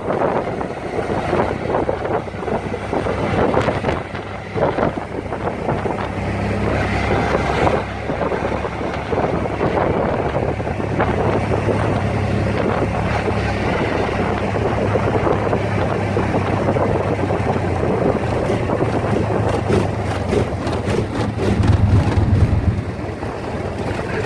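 Wind rushing on the microphone over a steady low engine hum, the hum swelling briefly near the end.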